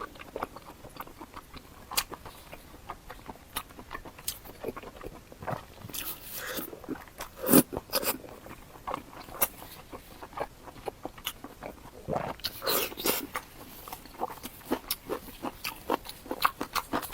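Close-miked eating: a person biting and chewing food, with irregular crunches and wet mouth clicks. There are louder bites about 2 seconds in, midway through, and again near the end.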